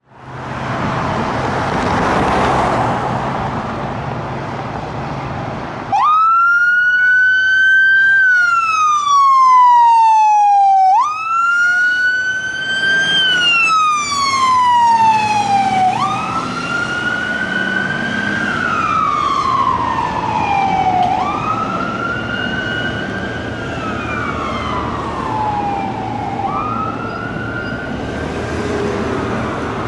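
Fire engine responding with its siren on a slow wail: it starts about six seconds in and rises then falls roughly every five seconds, growing fainter after the first couple of cycles. Before and under it, the low rumble of the truck's engine and traffic.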